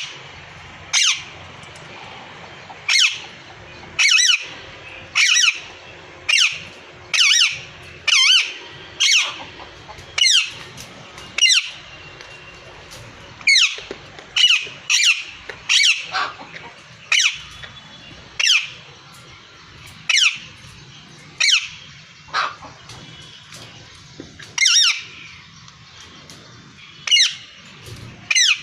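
A parrot squawking over and over: short, loud calls that each slide down in pitch, about one a second, with a few longer pauses between them.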